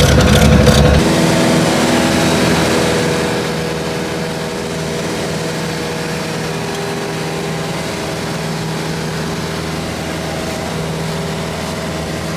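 Float plane's propeller engine running at high power during the takeoff. For about the first second it is loud with a rapid beating, then it grows quieter and settles into a steady drone with several held tones.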